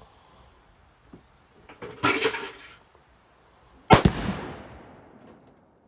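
Tannerite exploding inside a pumpkin: one sharp, loud boom about four seconds in that rolls away over about a second and a half. A shorter, softer burst of noise comes about two seconds before it.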